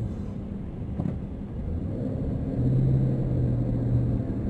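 Road noise inside a moving car: a steady low rumble of engine and tyres, with a low steady hum swelling in about two-thirds of the way through.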